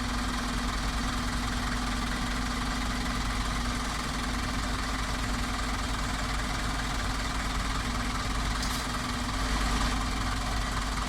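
Scania G 450 XT truck's 13-litre straight-six diesel running steadily, with an even low hum and a slight swell near the end.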